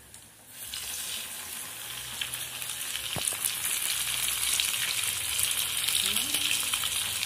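Breaded corvina fish deep-frying in a pan of hot oil. The sizzle starts about half a second in and keeps up a dense, steady bubbling hiss that grows slightly louder. There is one light knock about three seconds in as a spatula works the fish.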